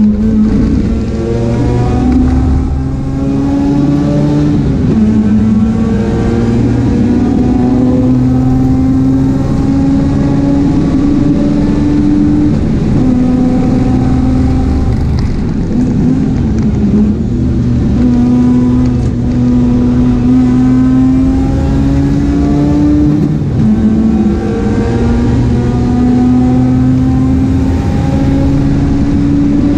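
Mazda RX-8 race car's engine under hard acceleration, its note climbing steadily through the revs and dropping sharply at each gear change, about five times.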